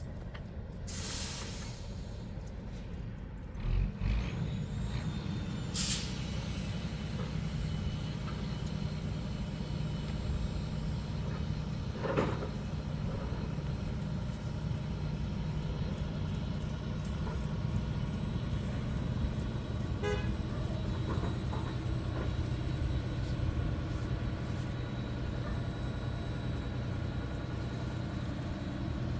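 Heavy diesel engine running steadily during the build-up of a fairground ride, with a short hiss of air about a second in, another brief hiss near six seconds, and a few clanks.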